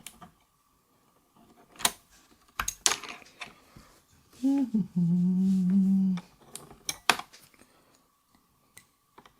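Scattered plastic clicks and clatter of keycaps being pulled from a mechanical keyboard and handled, with a man humming one held note for about a second and a half in the middle, the loudest sound.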